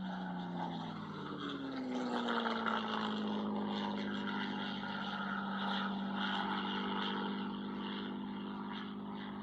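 Military aircraft flying past low: engine tone falling in pitch over the first two or three seconds as they go by, then holding steady over a broad jet rush.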